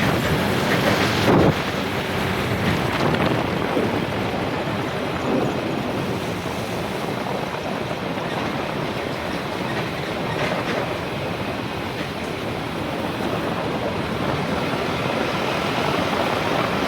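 Steady road noise and wind rush of a moving vehicle, heard from on board.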